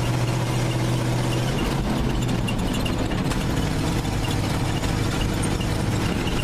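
Vintage dump truck's engine running steadily at low revs, its pitch dropping slightly about a second and a half in.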